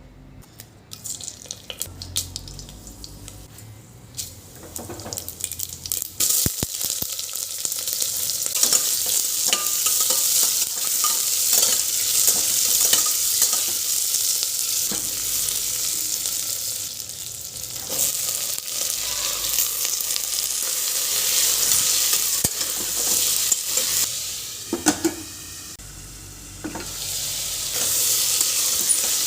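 Food sizzling as it fries in a pan, with a spoon clicking and scraping against the pan as it is stirred. The sizzle comes up loud about six seconds in and eases for a moment near the end.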